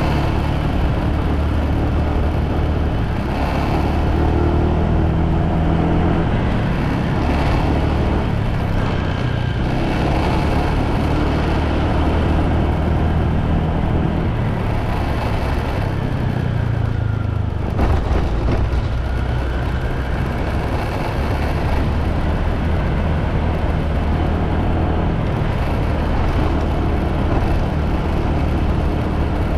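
Motorbike engine running steadily while being ridden, with a haze of road and wind noise over it. One short knock comes about eighteen seconds in.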